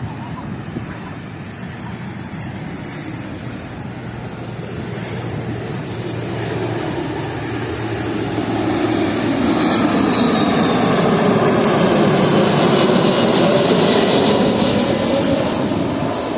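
Jet airliner passing low overhead on its approach to land, the engine roar growing steadily louder and peaking about ten seconds in. A high engine whine slides down in pitch as the aircraft goes past.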